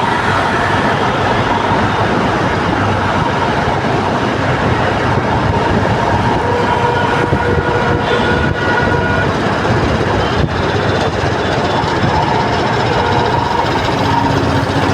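Loud, steady road traffic noise in a jam, with faint horn toots here and there.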